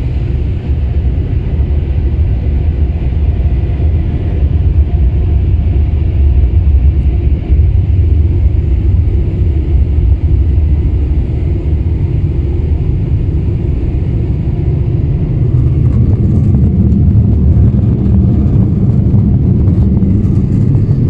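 Touchless car wash's air-dryer blowers running during the drying stage, a loud steady rumble that grows somewhat fuller about three-quarters of the way through.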